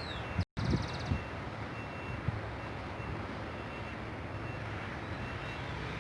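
Wind rumbling on the microphone, with a faint, short, high beep repeating about every half second. The sound cuts out briefly about half a second in.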